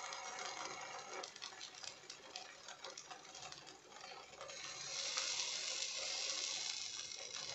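Bread frying in ghee on a hot tawa, sizzling and crackling where milk has been poured over it. The sizzle turns steadier and louder about halfway through as a spatula presses the bread down.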